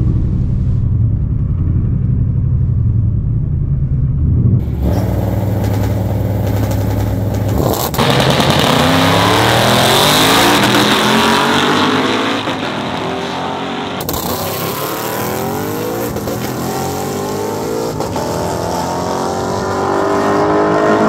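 A drag car idling, then launching hard down the strip, its engine pitch climbing and dropping back through several gear changes as it pulls away and fades.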